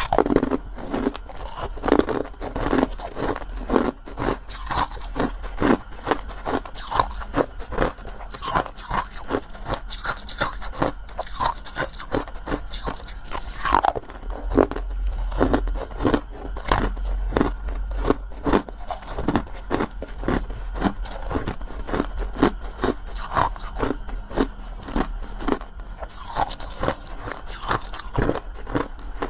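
Close-up biting and crunchy chewing, a dense, irregular run of sharp crunches with some scraping.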